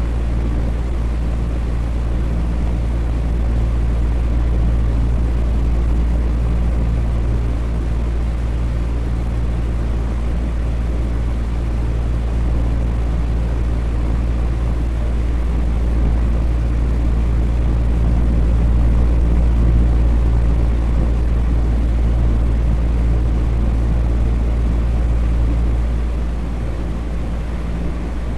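Electric fan running steadily: a constant low hum under an even rush of moving air, dipping slightly in level near the end.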